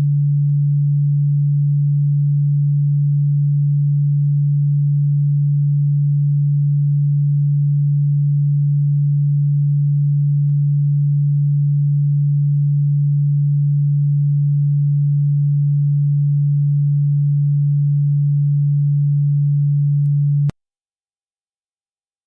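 Electronically generated single steady low tone, played as a cockroach-repellent sound. It cuts off suddenly about twenty seconds in, leaving silence.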